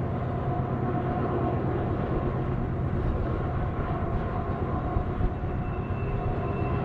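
Diesel locomotives hauling a long freight train, a steady engine drone with a faint high tone joining about five seconds in.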